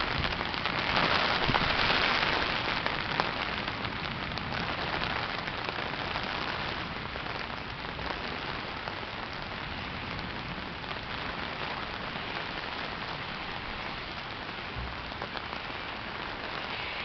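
Heavy rain falling in a steady hiss, heaviest about one to three seconds in.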